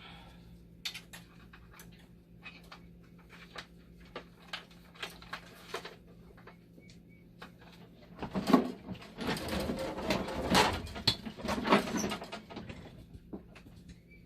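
Hands working on machine parts: scattered light clicks and taps, then from about eight seconds in several seconds of louder rustling and scraping, with a faint steady hum underneath.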